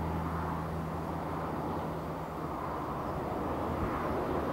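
A distant train approaching over a railway bridge: a low steady hum under a broad running noise that grows gradually louder toward the end.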